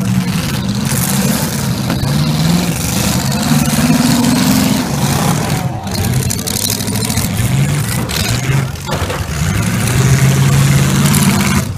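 Several V8 demolition derby cars running at once, their engines revving up and down again and again as the cars push into one another on dirt.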